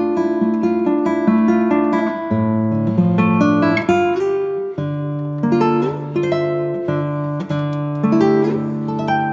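Background music: acoustic guitar picking out notes and chords at an even pace.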